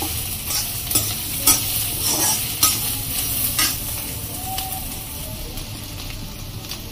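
Bitter gourd and potato sabzi sizzling in a wok over a full gas flame, with a metal slotted spoon scraping and clacking against the pan as it is stirred. The strokes come every half second or so and stop about four seconds in, leaving the steady sizzle.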